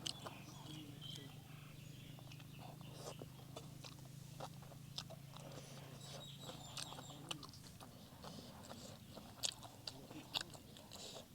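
Close-up eating sounds of someone chewing spicy stir-fried instant noodles with seafood, with many small sharp mouth clicks scattered throughout. A low steady hum runs underneath and stops about two thirds of the way in.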